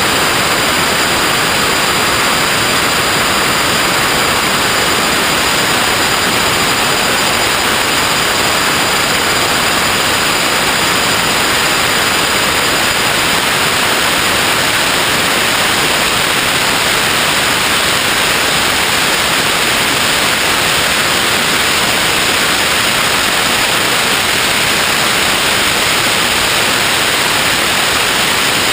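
Steady, loud hiss like static, with two faint high steady tones above it.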